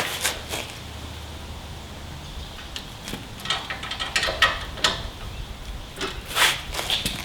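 Hand tools working on a car's front suspension strut: irregular metallic clicks, knocks and short scrapes, bunched in two clusters, over a low steady hum.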